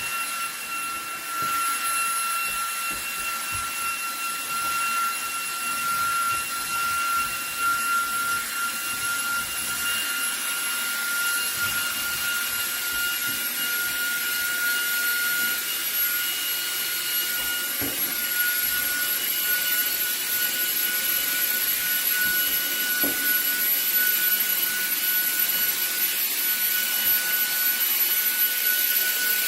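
Cordless vacuum cleaner running on max speed with its brush head on a rug: a steady high motor whine over a rush of air, its pitch creeping slightly upward.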